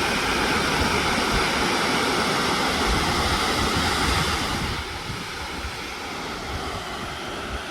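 A waterfall rushing steadily, its noise dropping to a quieter hiss about two-thirds of the way through.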